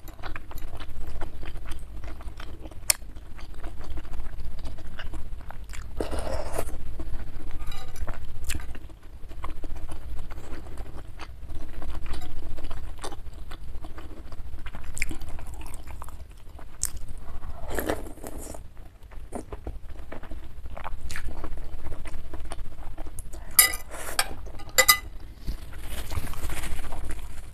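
Close-miked eating of beef meatballs in spicy broth: wet chewing, sips of broth from a spoon, and a few sharp clicks of metal cutlery against the bowl about 24 seconds in.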